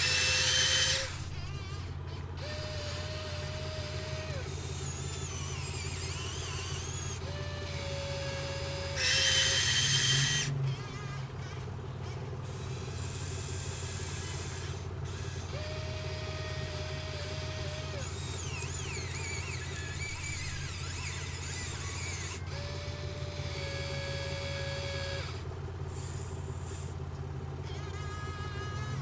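Remote-controlled model excavator's small electric motors and hydraulic pump running with a steady hum. About five times a higher whine holds for a second or two as the arm works. There are two louder, harsher bursts, one at the start and one about nine seconds in.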